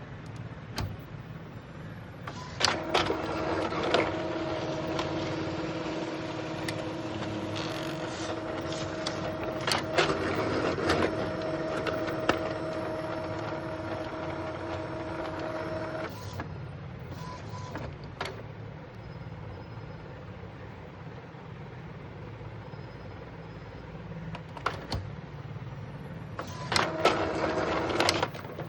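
Epson ink-tank inkjet printer mechanism running: a steady motor whine with clicks and knocks for about thirteen seconds, stopping suddenly, then starting again briefly near the end.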